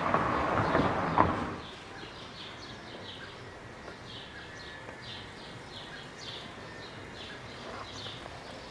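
Birds chirping in short, high, repeated notes over steady background noise. A louder rush of noise fills the first second and a half, then drops away.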